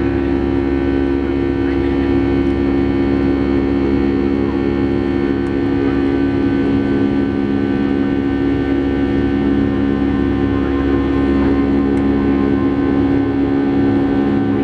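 Boeing 757-300 jet engines droning steadily, heard inside the passenger cabin: an even hum made of several held tones over a low rush.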